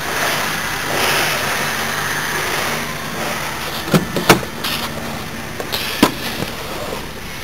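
2008 Holden Commodore's 3.6-litre V6 engine idling steadily, with a few sharp knocks past the middle.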